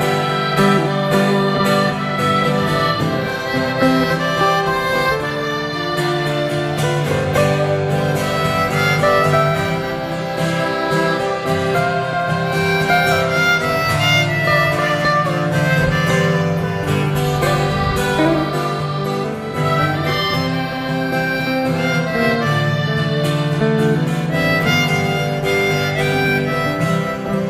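Instrumental break in a live folk-country song: a harmonica plays the melody over a strummed guitar accompaniment.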